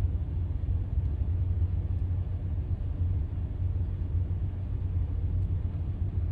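Steady low rumble of an idling diesel truck engine, even throughout with no changes.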